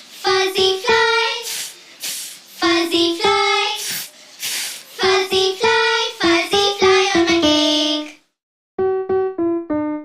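A child's voice singing short pitched notes of a preschool phonics song, broken by loud hissing sounds between phrases. The voice stops about eight seconds in, and after a short silence an electronic keyboard plays single melody notes.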